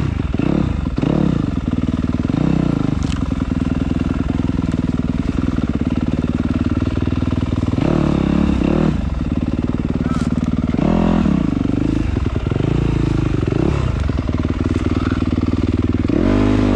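Yamaha YZ250F dirt bike's four-stroke single-cylinder engine running loud and close, revving up and falling back again and again as the rider works the throttle over rough ground.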